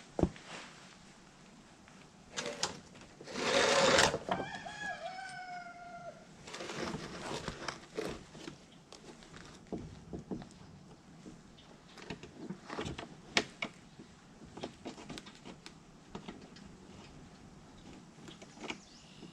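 A rooster crows once, a few seconds in. Its call opens with a loud, noisy burst and ends in a drawn-out pitched tail. Around it are scattered light clicks and knocks from hand tools and the plastic undertray being fitted back under the car.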